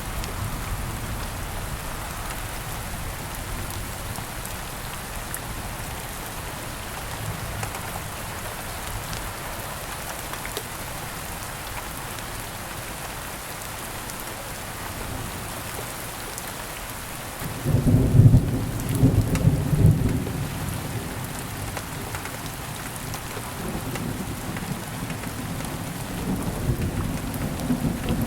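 Steady rain falling, with a low rumble of thunder rolling in about two-thirds of the way through. That rumble is the loudest part. A weaker rumble follows near the end.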